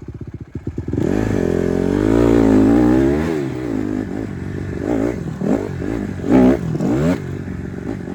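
Honda CRF150R dirt bike's four-stroke single-cylinder engine ticking over at low revs, then revved up about a second in and held for a couple of seconds. It then gives several quick throttle blips near the end, the loudest just before the last.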